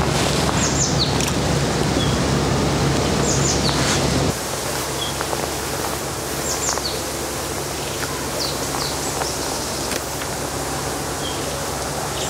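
Outdoor ambience: a steady hiss with a small bird repeating a short, high, falling call every few seconds. About four seconds in the sound cuts abruptly to a quieter ambience with a lower background.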